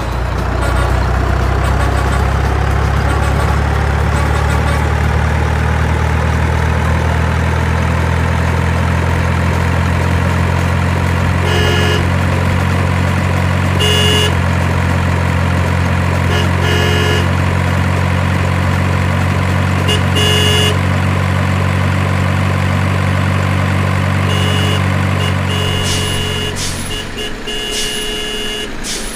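Heavy truck engine running steadily with a loud low drone that drops away near the end. Short high beeps sound several times from about halfway through.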